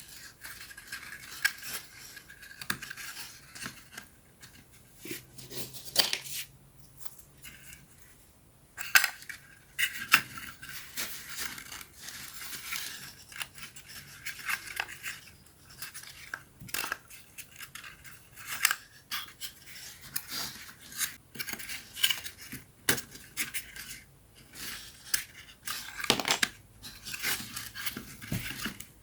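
Small laser-cut wooden puzzle pieces being handled and fitted together: irregular sharp clicks, taps and scratchy rubbing of thin wood.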